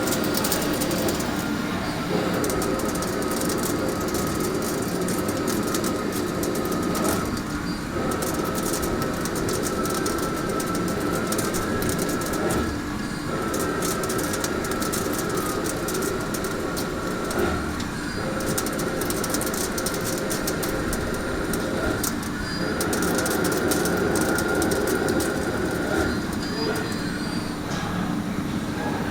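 Mazak QT200 CNC lathe running while turning a part: a steady machine hum with a fine crackle, easing briefly about every five seconds.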